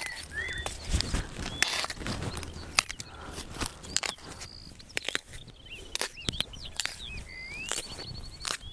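Small birds chirping and whistling in short rising and falling calls, with a quick trill near the end, over frequent irregular knocks and clicks.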